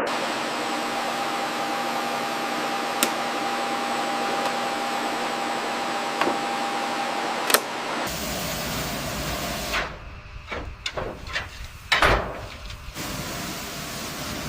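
Workshop machine noise: a steady hiss with a faint hum and a few sharp clicks. About eight seconds in it changes abruptly to a run of irregular knocks and clanks, then settles back to a steady hiss.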